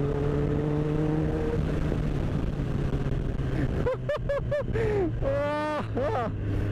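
Kawasaki Z1000 inline-four motorcycle engine running at a steady cruise under wind noise on the microphone. Around the middle, a quick run of short wavering pitched sounds and one rising glide sit over the engine drone.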